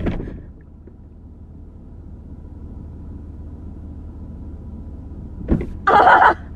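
Car door slammed shut about five and a half seconds in, with a sharp bang, over the steady low hum of the car with its engine running; another slam is dying away at the very start. Right after the slam comes a loud half-second burst of sound.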